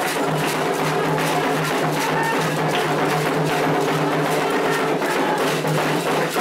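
Candomblé ritual percussion for Xangô: atabaque hand drums played in a steady, dense rhythm with sharp, wood-like strikes.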